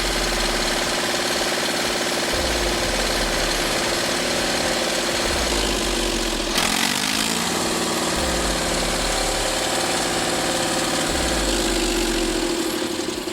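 Tractor diesel engine running steadily, with a sudden shift in its sound and a brief change of pitch about halfway through.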